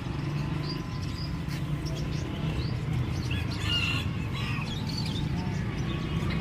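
Many small caged birds chirping at once, short high calls overlapping throughout, over a steady low rumble.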